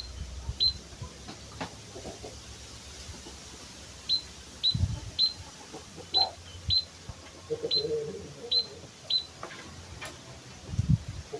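White-headed munia (emprit kaji) giving short, thin, high call notes, about ten of them at irregular intervals, over scattered low knocks and background noise.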